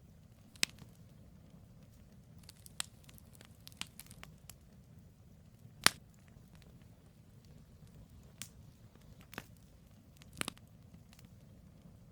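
Wood campfire crackling: irregular sharp pops and snaps from burning logs, the loudest about six seconds in, over a low steady rumble of the fire.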